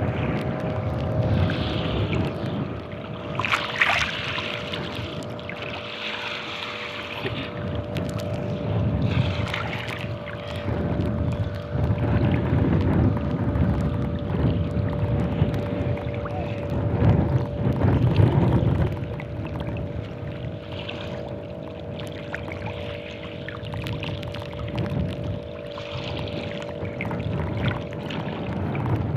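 Strong wind buffeting the microphone over the wash of waves, rising and falling in gusts, with a steady hum running underneath.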